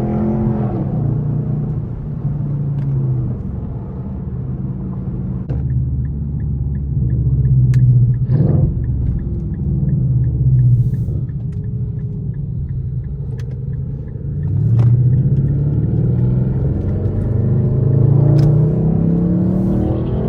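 Straight-piped Infiniti M56's 5.6-litre V8 exhaust while driving. The note falls off at the start, runs low and steady through the middle, then climbs twice as the car accelerates, about three-quarters of the way in and again near the end. A faint regular ticking sounds for several seconds in the middle.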